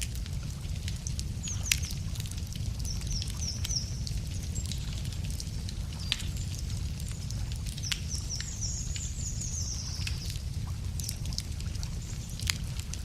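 Wood campfire crackling, with sharp pops scattered irregularly over a steady low rumble. Small birds chirp in short high runs a few times, longest from about eight to ten seconds in.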